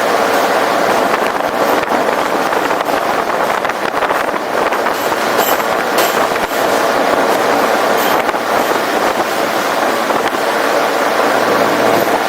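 A New York City subway F train running along the track, picked up from a camera on the car's roof: a steady loud rushing noise of wheels and passing air, with a few sharp clicks.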